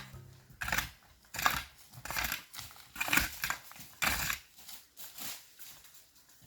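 Repeated rasping strokes of a hand tool, about one every 0.8 seconds, getting weaker after the first few.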